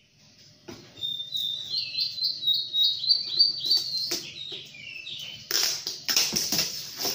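Small birds chirping over and over in short, quick, falling notes. About five and a half seconds in, plastic packaging crinkles and rustles as it is handled and pulled open.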